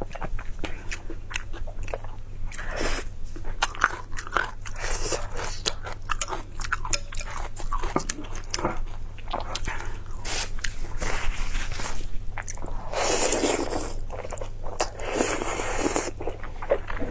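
Close-miked chewing and biting of food, with a constant run of irregular crunching clicks and wet mouth sounds, and two longer, louder bursts about thirteen and fifteen seconds in.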